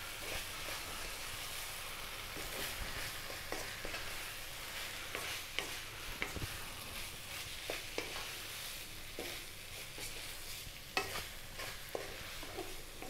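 Rice and tomato sauce sizzling in a nonstick wok on just-below-medium heat, while a wooden spoon folds the rice through, with short irregular scrapes and taps of the spoon against the pan.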